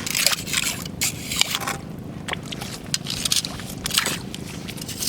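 Irregular scraping and crunching on a rocky, shell-strewn shore as a beachcomber moves and handles things among the stones, with a few sharp clicks.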